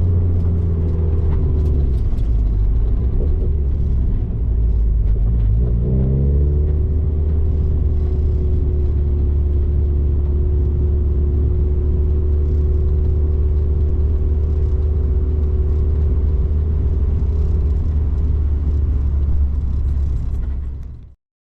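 Turbocharged Mazda MX-5 engine running at a steady speed, with the revs climbing briefly about six seconds in and then holding steady; the sound cuts off abruptly near the end.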